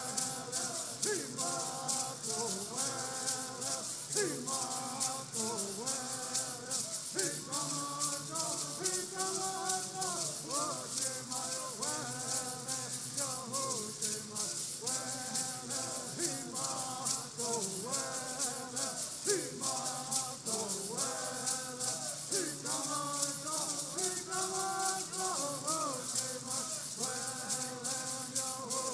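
Southern California bird songs: voices singing over the steady, fast shaking of gourd rattles.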